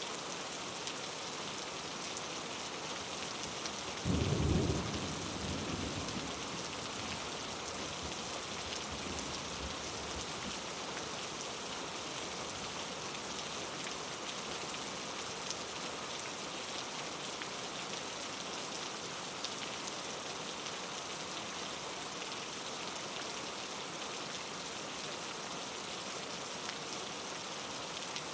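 Steady hiss of heavy rain falling on a surface. About four seconds in comes a sudden low rumble of thunder, which fades away over the next several seconds.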